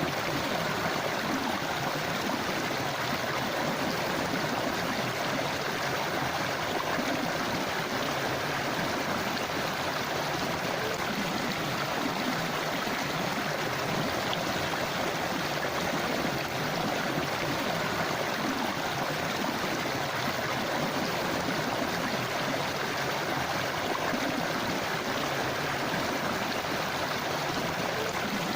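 A shallow river running over stones, a steady rush of flowing water with a fine babbling texture, unchanging throughout.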